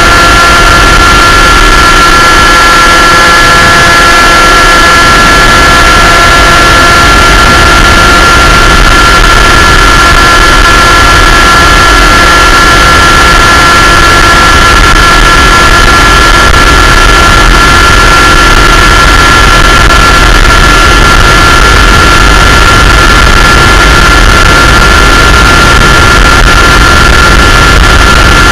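Aircraft engine and propeller running steadily at a constant speed, heard loud and close as if from on board, with a steady pitch that does not change.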